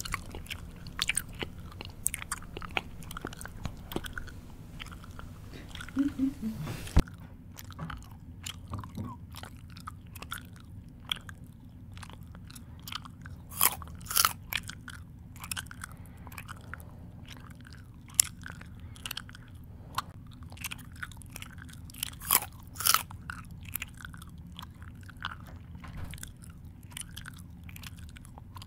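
A person chewing crunchy food close to the microphone: irregular crunches and mouth smacks.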